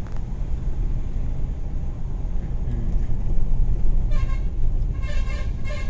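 A vehicle runs along a narrow mountain road, its engine and road noise a steady low rumble. The horn is sounded twice near the end, a short blast and then a longer one, as a warning on the narrow, winding road.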